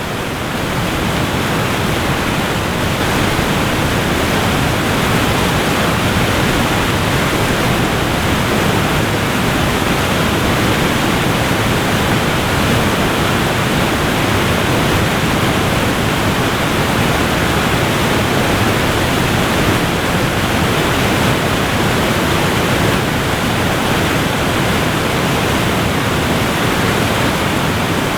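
Waterfall: falling water making a loud, steady rush with no breaks, fading in over the first two seconds.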